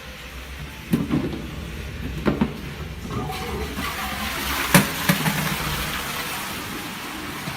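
Toilet with a DUX cistern flushing: a few sharp clunks, then water rushing into and through the bowl, over the steady hiss of the cistern.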